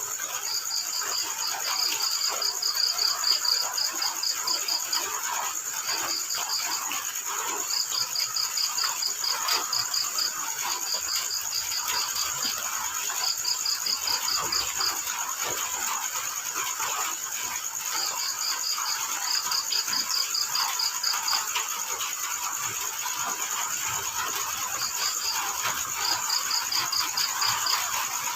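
Field crickets chirping in trains of rapid pulses, each train lasting a second or two and repeating every few seconds, over a continuous higher-pitched insect trill and a soft steady hiss.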